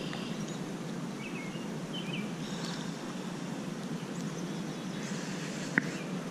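Small birds chirping a few times in the first couple of seconds over a steady outdoor background noise, with a single sharp click near the end.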